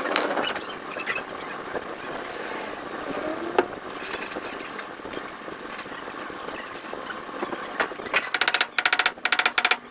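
Several short bursts of very rapid mechanical rattling near the end, over steady workshop noise, with one sharp click about three and a half seconds in.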